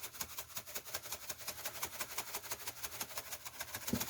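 Steady background noise with a fast, even pulse of about eight faint ticks a second, and a single soft knock near the end.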